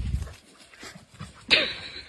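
A dog gives a short whimper about one and a half seconds in, falling in pitch, after a low thump near the start.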